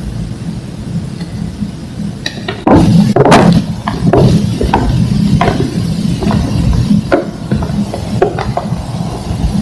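Thick slabs of green-dyed homemade gym chalk crushing and crumbling: a loud crunch a couple of seconds in, then a run of smaller cracks and crumbles, over a steady low hum.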